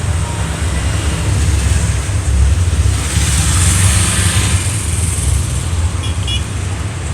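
Road traffic: a steady low rumble, with a vehicle passing close about halfway through, its hiss swelling and then fading.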